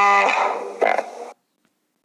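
A short animal call with a clear pitch and a second brief call, then an abrupt cut to dead silence about a second and a third in.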